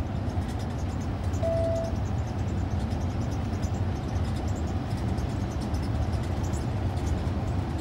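Steady low rumble of a vehicle travelling on the road.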